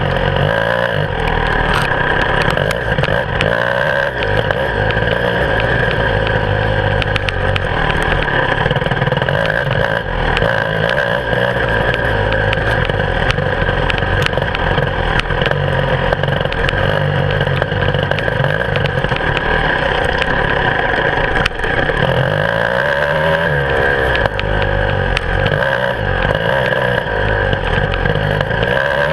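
Beta 300 RR two-stroke enduro motorcycle engine running hard along a dirt trail, its revs rising and falling with the throttle, with scattered knocks and rattles from the bike over rough ground.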